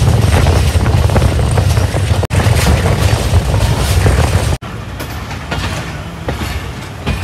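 Passenger train running along the track, a heavy low rumble. The sound cuts off sharply about two seconds in and again a couple of seconds later, and it is quieter after the second cut.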